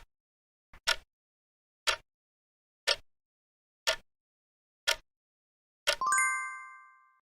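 Quiz countdown timer sound effect: a sharp tick about once a second, then a bell-like chime of several tones just after six seconds in that rings out and fades over about a second, marking that the 10 seconds of answer time are up.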